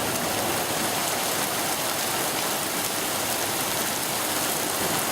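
Steady rain falling hard, an even hiss with no breaks.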